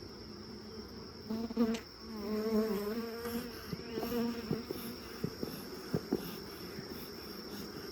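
Honeybees buzzing at an opened hive, disturbed by the inspection; one bee passes close with a louder, wavering buzz from about a second in for a few seconds. A few sharp clicks follow, over a steady high trill.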